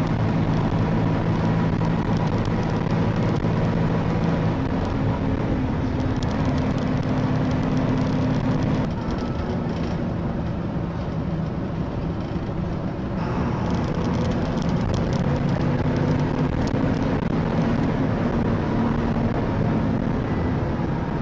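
Car engine hum and road noise from a moving car, steady throughout, with the engine note shifting to a new pitch a few times.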